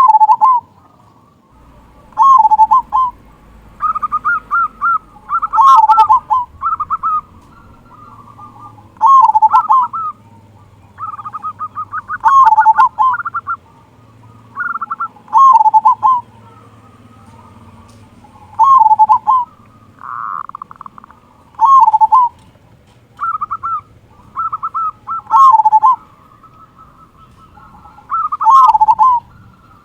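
Local zebra dove (perkutut) singing: repeated cooing phrases, each a quick stutter of higher notes falling into a deep final "kung" coo, one every two to three seconds.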